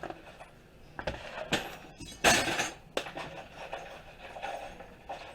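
Knocks and clinks of an iMac display panel being turned and shifted on a workbench, with one louder clattering knock a little over two seconds in.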